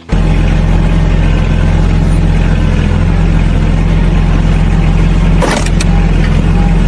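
A loud engine running steadily, with a brief sharp sound about five and a half seconds in.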